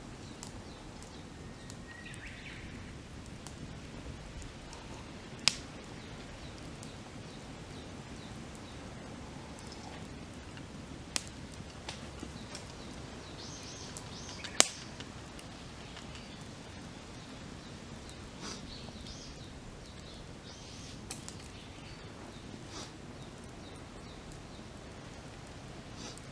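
Wood campfire burning with a low crackle and three sharp pops, the loudest a little past halfway. Birds call briefly now and then.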